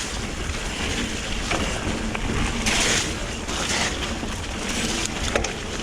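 Electric mountain bike riding a wet, muddy trail: steady wind rumble on the microphone and tyre noise, with a louder hissing rush about three seconds in and a few light knocks from the bike.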